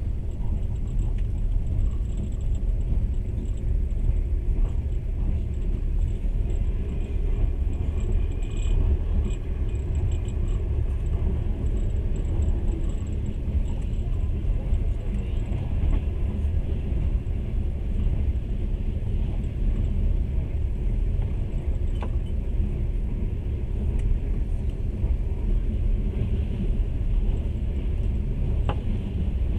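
Steady low rumble of a moving train, picked up by a camera at the carriage window, with two faint clicks in the second half.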